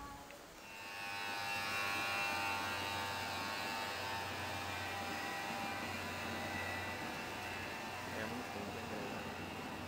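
First Great Western High Speed Train moving through the station: a steady multi-toned whine over a low hum, muffled by glass, easing after about seven seconds.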